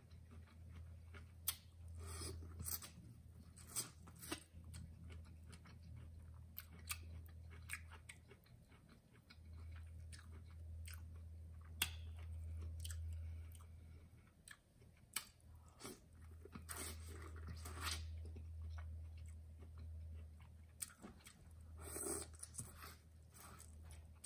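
Close-miked chewing and biting of a saucy seafood boil with corn on the cob, full of short wet smacks, lip-sucking and crunches at an uneven pace.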